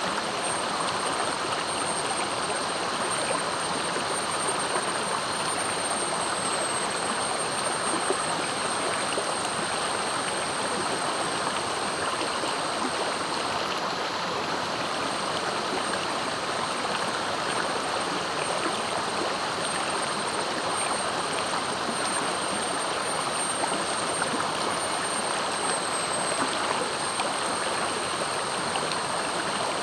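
Clear, fast-flowing river rushing steadily over its bed. A thin, high-pitched steady tone sounds over it, breaking off briefly about halfway through.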